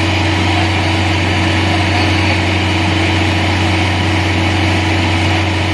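Excavator's diesel engine running at a steady speed, an even low hum with no change in pitch.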